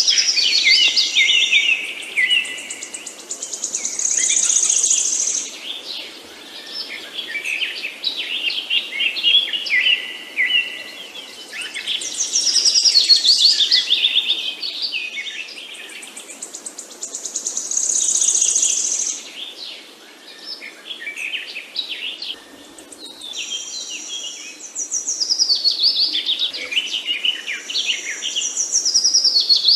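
Songbirds singing and chirping, quick repeated notes and trills coming in bouts every few seconds.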